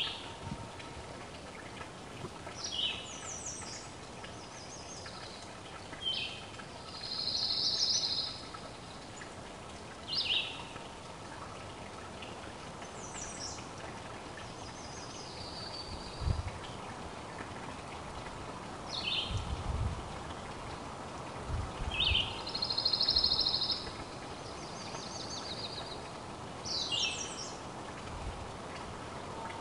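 A songbird singing short phrases every few seconds, each a quick descending slurred note or a buzzy trill, over a steady outdoor hiss. A few dull low thumps come in the middle stretch.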